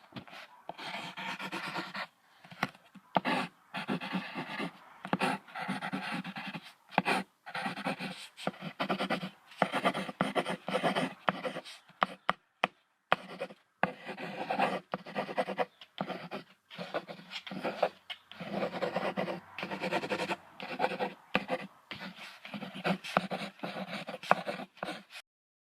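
Rhinoceros breathing in many short, rapid huffs and pants with brief gaps between them.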